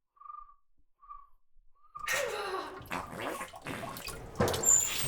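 A few faint short beeps at one pitch, then from about two seconds in, loud rushing, gurgling water.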